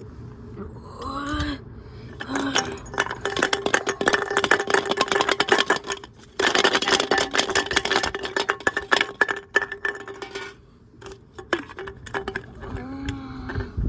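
Appliance UK integrated washing machine running with a 6-litre water bottle in the drum, with a steady motor tone. A dense, fast clattering and rattling starts about two seconds in, gets louder for a few seconds past the middle, then eases off.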